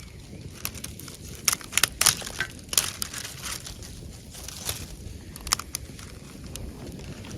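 Wood campfire in a fire-pit stand crackling: a quick run of sharp pops and snaps about one and a half to three seconds in, then scattered single pops, over a steady low rush.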